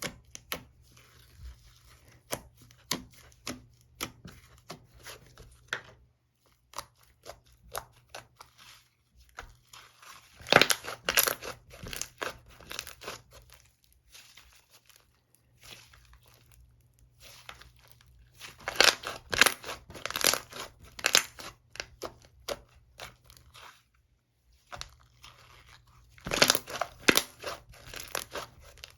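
Bubblegum slime being squished and stretched by hand, giving scattered sticky clicks and pops. Denser, louder runs of crackling pops come about a third of the way in, again past the middle, and near the end.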